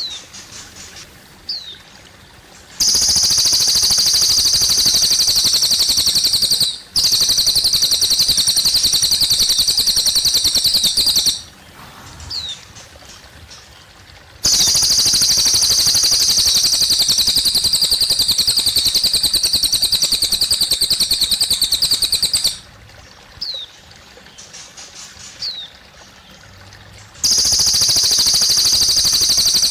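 A cililin bird singing long, fast, high-pitched trills several seconds at a time, with short single chirps in the pauses between them. Water trickles quietly underneath.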